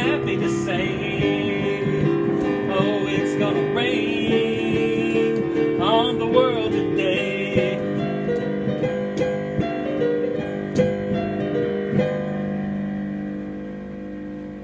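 Instrumental ending of a song on piano and guitar, with held chords that fade and ring out near the end.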